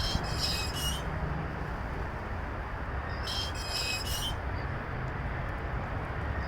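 Steady low rumble of traffic and running engines, with a high, several-toned chirping squeal about a second long that comes back roughly every three seconds.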